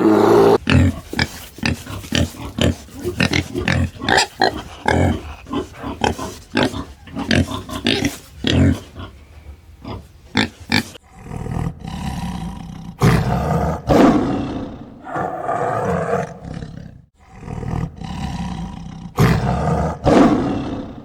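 Lion roaring and grunting: a long run of short grunts in quick succession, then longer, drawn-out calls in the second half.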